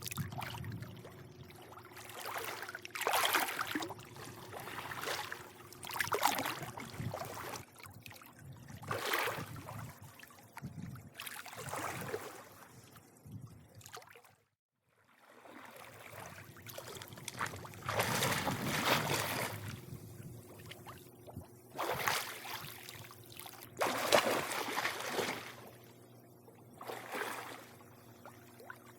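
Swimming-pool water lapping and sloshing in irregular swells every second or two, over a steady low hum. The sound cuts out completely for about half a second about halfway through.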